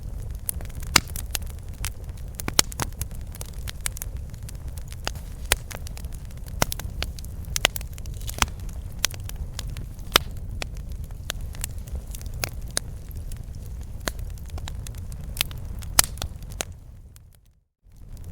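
Campfire crackling, with irregular sharp pops and snaps over a low steady rumble. The sound fades to near silence shortly before the end, then comes back.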